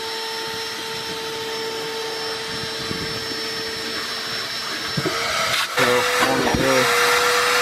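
Vacuum cleaner running steadily with a constant whine while cleaning the truck's carpet. A little under six seconds in it gets louder and its pitch rises slightly.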